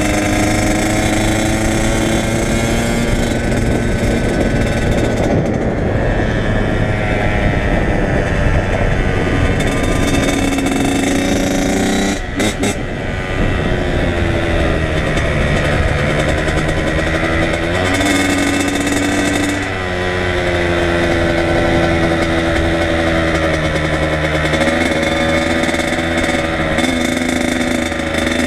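Kawasaki KX100 two-stroke single-cylinder dirt bike engine running under way, its pitch rising and falling as the throttle opens and closes through the gears. The engine note briefly cuts out about 12 seconds in and dips again a few seconds before it ends as the throttle is rolled off.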